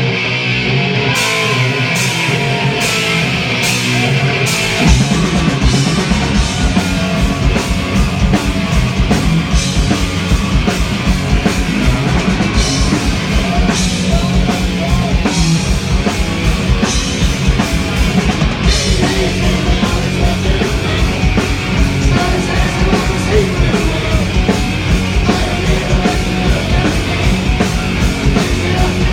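Loud heavy metal band playing. Guitar and evenly spaced cymbal hits open it, and about five seconds in the full band crashes in with fast, driving drums and bass.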